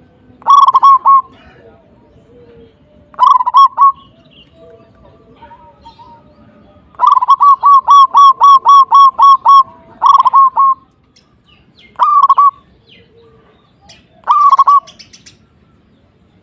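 Zebra dove (perkutut) cooing in bursts of quick, stuttering coo notes, about six phrases in all. The longest is a run of about a dozen notes in the middle. Fainter bird notes come between the phrases.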